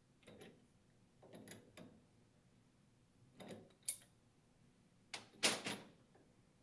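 Metal hand tools and pump parts being handled on a workbench: a few short bursts of clinks and scrapes, the loudest near the end.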